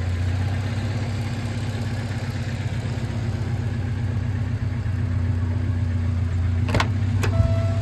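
1987 Alfa Romeo Spider Graduate's twin-cam four-cylinder engine idling steadily while warming up after a cold start. Near the end there are two sharp clicks, followed by a short beep.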